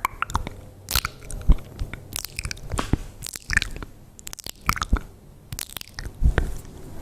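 Close-miked ASMR mouth sounds: irregular clicks and smacks of lips and tongue.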